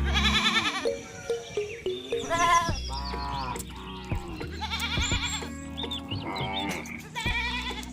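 Several wavering animal bleats, of sheep or goats, over background music with a steady low beat.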